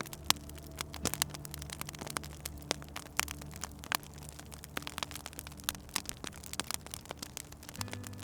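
Wood fire crackling, with frequent irregular sharp pops over a soft hiss. A low steady hum or drone sits underneath and shifts pitch about a second in and again near the end.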